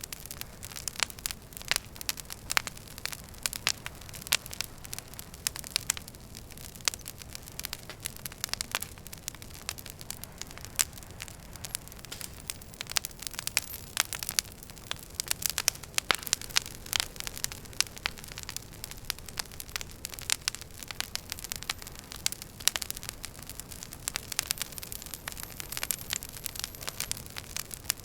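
Wood fire burning in a fireplace, crackling: dense, irregular sharp pops and snaps over a steady low rumble of the flames.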